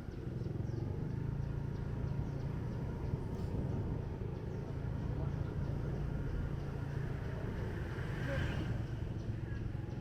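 Motorbike engine running steadily, with street noise around it.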